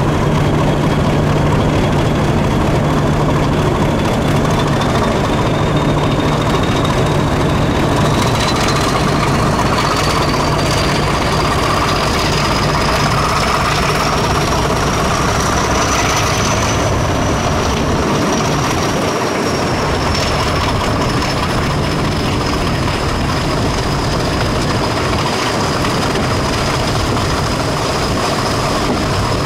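Passenger train running along the line, heard from an open carriage window: a steady rumble of wheels on rails, with a high whine that climbs slowly over the first half and then eases off a little.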